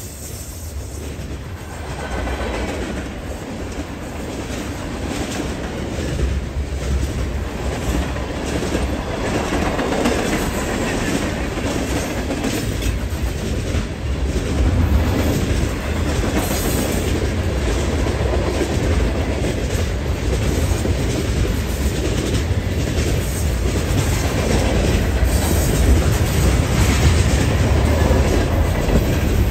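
Train rolling past close by: a heavy rumble with wheels clacking over the rail joints, growing steadily louder.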